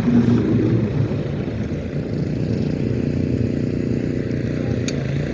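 Snowplow trucks' engines running as they approach down the street, a steady low drone.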